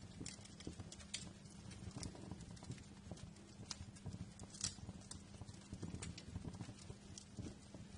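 Wood fire crackling: irregular sharp pops and snaps over a low, steady rumble of burning, with one louder pop a little past halfway.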